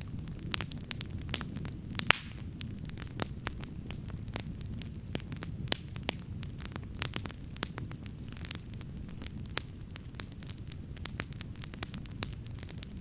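Wood campfire crackling, with frequent sharp pops at irregular intervals over a steady low rumble.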